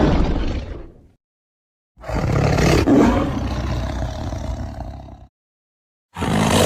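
Tiger roaring in separate roars with dead silence between them. One roar fades out about a second in, a full roar of about three seconds follows, and another begins near the end.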